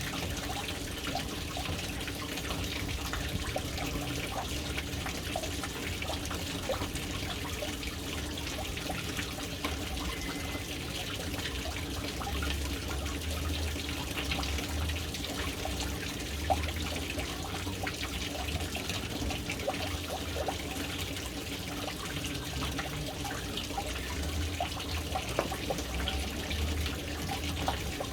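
Water pouring steadily into a household water tank (caixa d'água), a continuous splashing trickle with many small drips and a low rumble from the tank.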